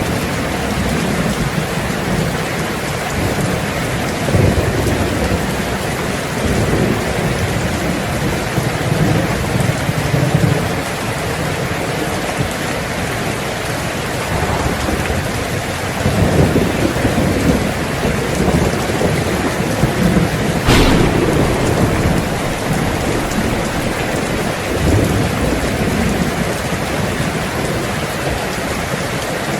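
Heavy rain drumming steadily on a tin roof, with thunder rumbling in low swells again and again and one sharp crack about two-thirds of the way through.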